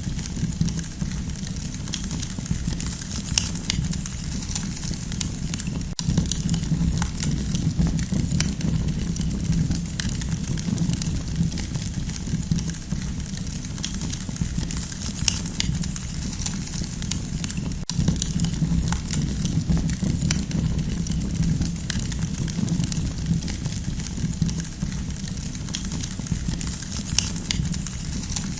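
Campfire crackling: irregular pops and snaps over a steady low rumble of burning.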